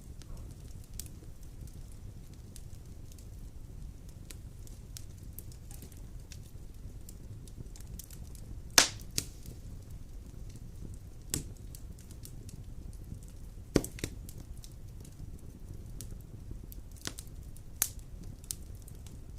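Wood fire burning in a fireplace: a steady low rumble of flames with frequent small crackles and a few loud sharp pops, the loudest about halfway through.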